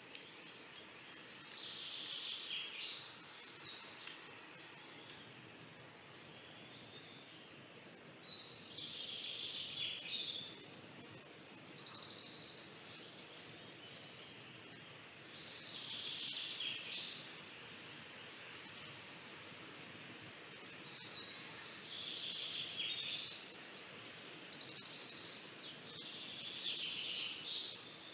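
Songbirds singing high chirping and trilling phrases, each a few seconds long with short pauses between, over a faint steady hiss.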